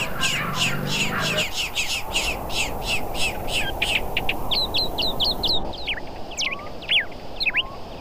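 Wild birds calling: a fast run of short high chirps, about four or five a second, then, after about five and a half seconds, a few separate sweeping whistled notes, over a steady background hiss.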